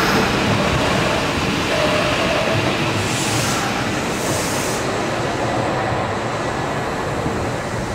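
Electric commuter train running alongside a station platform. Its steady wheel and motor rumble slowly fades, with a couple of short high hisses partway through.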